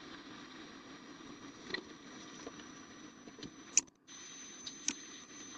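Steady hiss with a faint high whine from a nest-box camera's microphone, broken by a few sharp taps or knocks about 2, 4 and 5 seconds in, with a brief dropout just before the second half.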